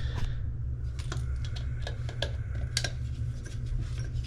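Irregular light clicks and taps of hand and tool on the faucet's underside as its mounting nut is worked loose, over a steady low hum.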